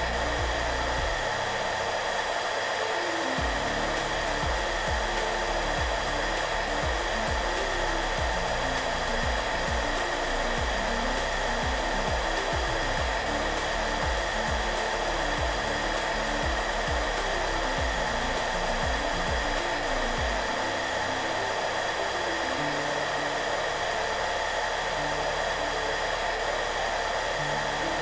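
Hair dryer running steadily, a constant airflow noise with a faint steady whine, with soft background music playing quietly underneath.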